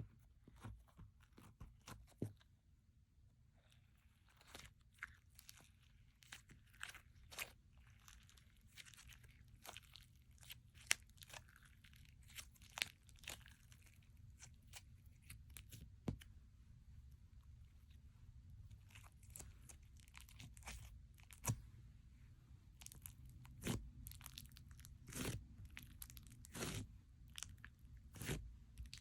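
Slime being kneaded and stretched by hand, giving irregular sticky clicks and crackles, a few sharper pops among them.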